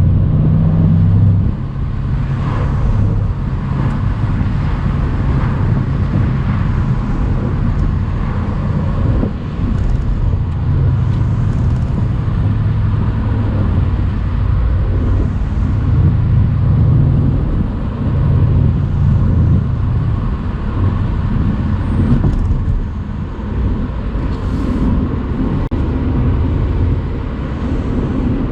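Mercedes-AMG C63's twin-turbo 4.0-litre V8 running on the road, its note rising and falling with the throttle, loudest in the first second or so. Wind and tyre noise come through because the convertible's top is down.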